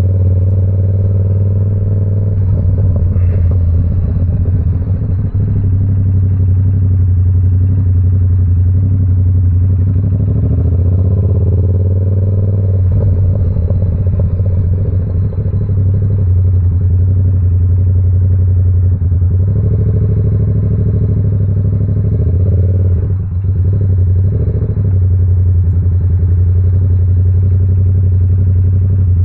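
Yamaha R7's 689 cc parallel-twin running through an SC Project CR-T exhaust, holding a steady engine pitch with a few brief changes in tone.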